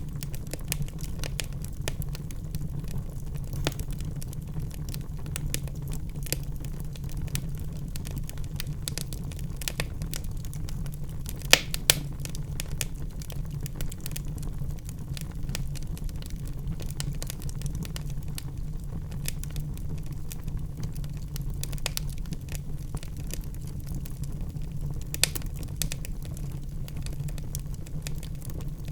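Wood fire burning in a fireplace, crackling steadily with scattered small pops over a low rumble of the flames; a couple of sharp, louder pops about twelve seconds in and another near twenty-five seconds.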